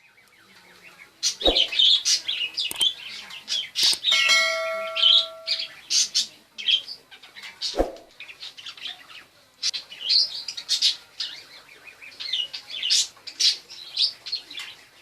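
Budgerigar warbling and chattering in a quick, continuous run of chirps, with a few sharp clicks and a short held tone partway through.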